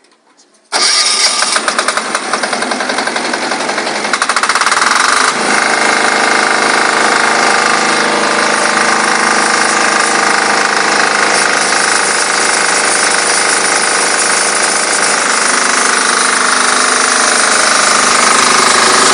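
The washer's diesel engine starts about a second in and runs with a rapid knocking beat; about five seconds in the sound changes and settles into steady running.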